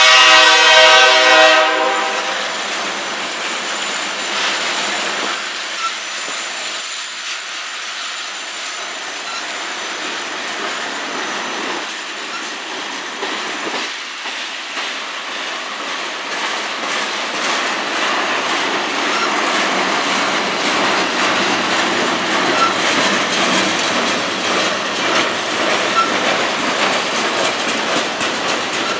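Freight train of covered hopper cars rolling past: a steady rumble and clatter of wheels on rail, with a few brief faint squeaks. A locomotive horn chord sounds at the start and cuts off before two seconds in.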